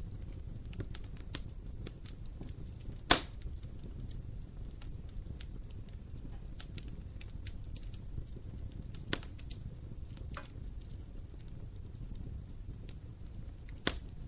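Wood fire burning in an open fireplace: a steady low rumble of flames with scattered crackles and one loud pop about three seconds in, and smaller pops later on and near the end.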